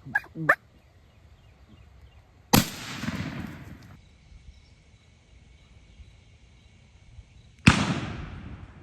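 Two shotgun blasts about five seconds apart, each a sharp crack trailing off over about a second, fired at a wild turkey gobbler. A few light clicks come just before the first shot.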